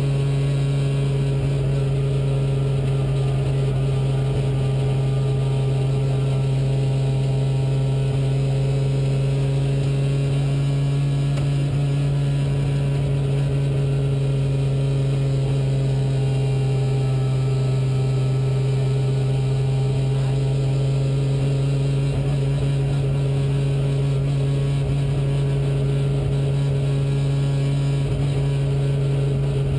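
Rally car's engine running steadily at constant revs in fifth gear, heard inside the cabin over an even rumble of road and tyre noise. The pitch hardly changes at all.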